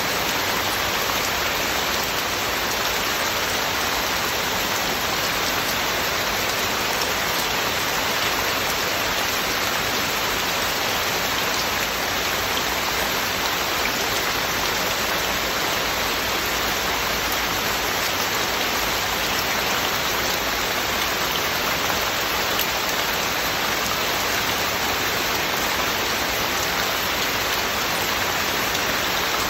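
Heavy rain falling steadily, an even unbroken downpour without thunder.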